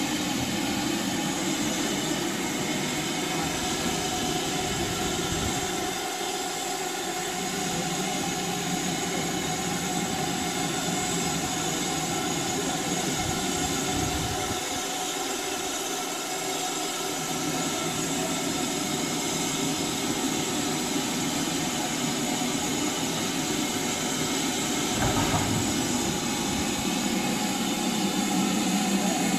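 Heritage railway train running steadily along the line, a continuous rumble of running gear and rails, with a single thud about 25 seconds in.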